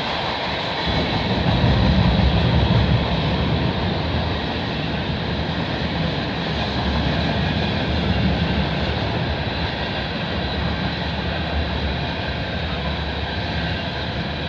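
Tank cars of a freight train rolling past on steel wheels and rails: a steady, continuous rumble, a little louder a second or two in.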